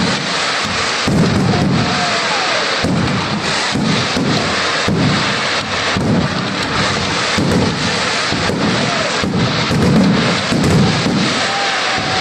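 Fireworks display going off: a dense, continuous barrage of bangs and crackling, with a few faint whistles sliding in pitch.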